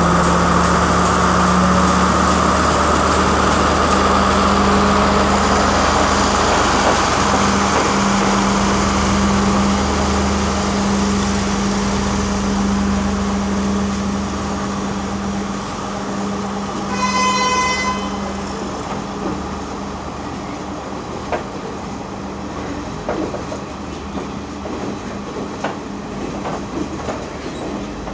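Diesel express train pulling out of the station: the power car's engine drones steadily, the horn gives one short toot about 17 seconds in, and then the passing carriages run on more quietly with wheels clicking over the rail joints.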